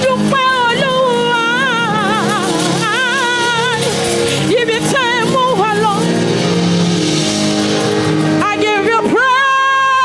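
A woman singing a gospel worship song with wavering, ornamented runs over a steady band accompaniment, ending on a long held note near the end.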